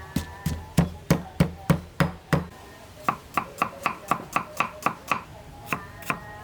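Knife chopping on a cutting board: steady heavy strokes about three a second, then quicker, lighter strokes about four a second from around three seconds in.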